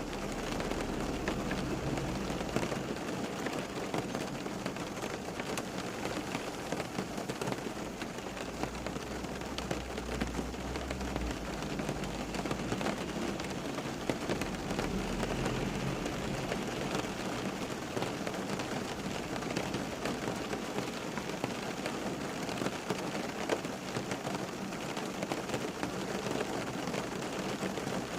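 Steady rain falling, a dense patter of countless small drop hits over an even hiss. A low rumble swells underneath about a third of the way in and fades again.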